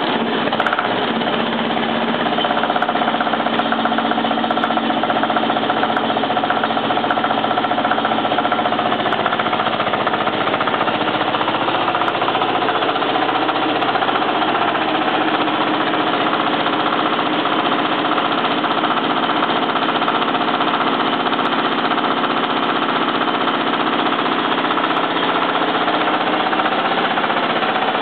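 Wheel Horse garden tractor's diesel engine running steadily at idle while still cold, just after a cold start at 15 °F.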